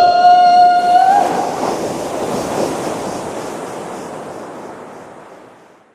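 A pitched tone that swoops up and holds steady for about a second, then a rushing wash like surf that fades away smoothly.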